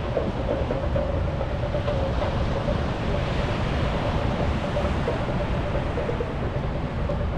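Steady rushing noise of ocean surf and sea breeze, heaviest in the low end.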